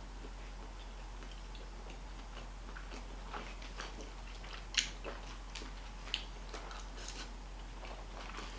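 A person chewing a mouthful of animal style fries close to the microphone: soft, irregular small wet clicks and smacks, with a sharper click about five seconds in and another about six seconds in.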